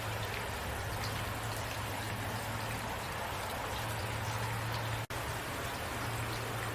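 Steady rain with scattered drops pattering over a continuous hiss and a steady low rumble underneath. The sound cuts out for an instant about five seconds in.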